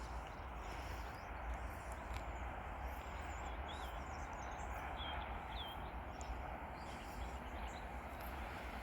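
Steady background noise with a low rumble, and a few short bird chirps a couple of seconds in.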